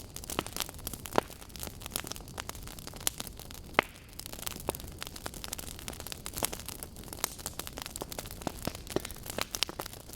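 Wood fire burning, with burning logs crackling and popping in irregular sharp snaps over a low rush of flame; one louder pop about four seconds in.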